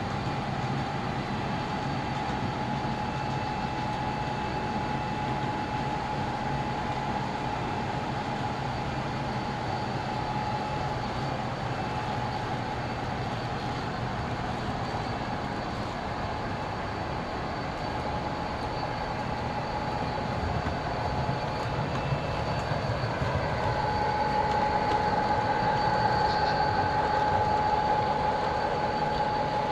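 Model passenger trains running on a model railroad layout: a steady rumble of wheels on track with a steady motor whine, growing louder over the last several seconds.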